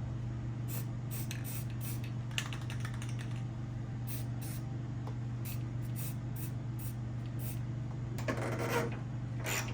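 Hand ratchet clicking in short runs as bolts are backed out of a car door, with a brief metallic scrape near the end, over a steady low hum.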